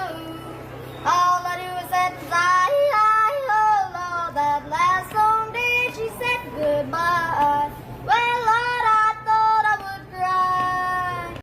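A high-pitched singing voice in short melodic phrases with gliding pitch, over a steady low hum; it cuts off abruptly at the end.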